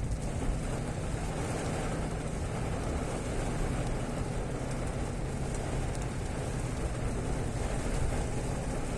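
Fairly heavy rain falling steadily, with a low, even rumble underneath.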